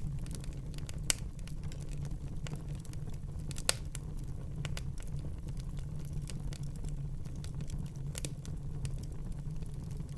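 Wood fire burning in a fireplace: a steady low rumble with scattered small crackles, and two louder sharp pops about one and three and a half seconds in.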